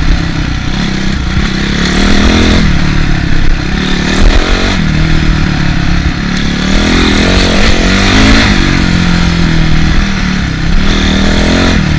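Single-cylinder four-stroke dirt bike engine under way, its revs rising and falling several times as the throttle is worked, over a steady rush of wind noise.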